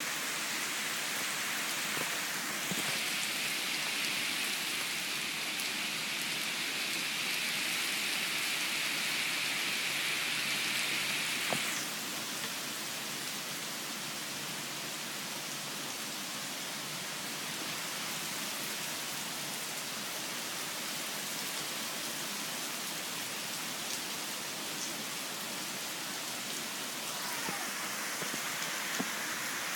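Steady rain falling, a continuous hiss with the odd single drop ticking. It swells to a louder, brighter spell from about three seconds in until about twelve seconds, eases off, then grows louder again near the end.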